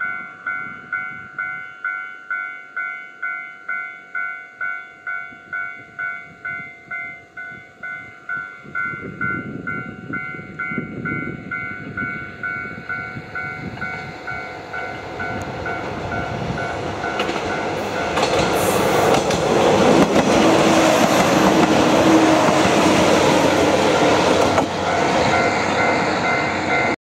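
Japanese level-crossing bell ringing about twice a second as a diesel railcar of the Shigaraki Kohgen Railway approaches. From about nine seconds in, the train's engine and wheel noise grow louder, are loudest in the second half, and largely drown out the bell.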